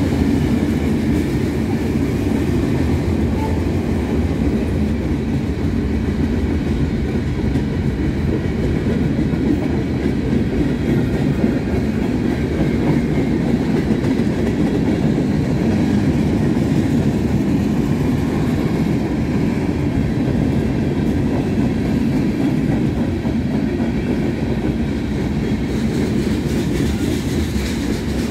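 Freight cars of a passing train rolling by at close range: a steady, loud, low-pitched noise of steel wheels running on the rails.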